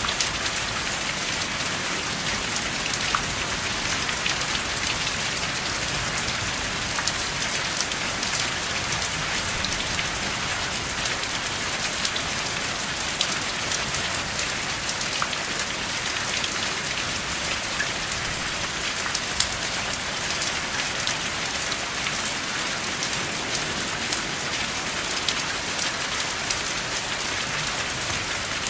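Steady rain falling, an even hiss with many separate drops ticking sharply through it; no thunder.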